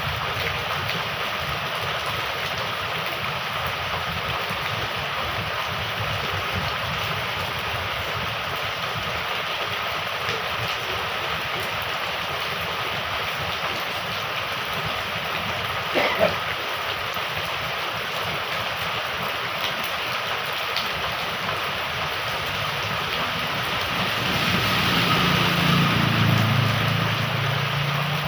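Heavy rain pouring steadily, with running, gurgling water. A single sharp knock sounds about halfway through, and a low rumble swells briefly near the end.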